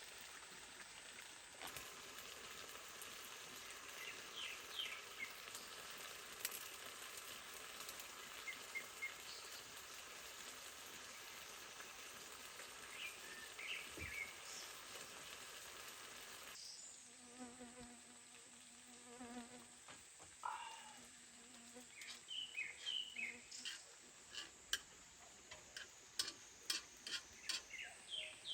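Outdoor ambience of small birds chirping over a steady hiss; about halfway through the hiss drops away to a quieter background with a low hum, and a series of sharp clicks or taps comes near the end.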